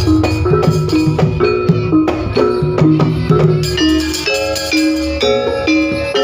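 Jaranan pegon music: a Javanese gamelan ensemble plays a repeating melody of struck pitched metal notes over drums and a heavy, boosted bass.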